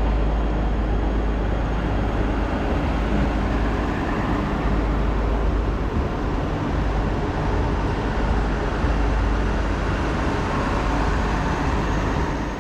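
A rail vehicle running: a steady rumble with a rush of noise, and no distinct clanks or horn.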